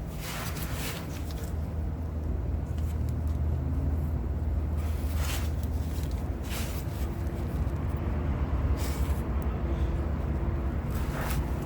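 A vehicle engine idling steadily with a low, even hum. Several short rustling noises sound over it.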